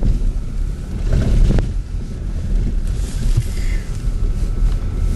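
Strong blizzard wind gusting and buffeting the microphone, a loud, uneven low rumble.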